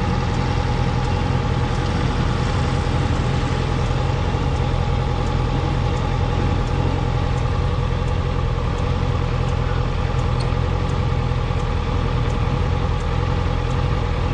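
Honda CB650F's inline-four engine idling steadily.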